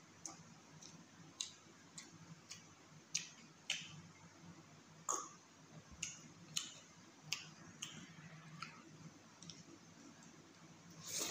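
Close-up eating sounds from chewing chicken curry and rice: short, sharp wet mouth clicks and lip smacks at irregular intervals, about one a second.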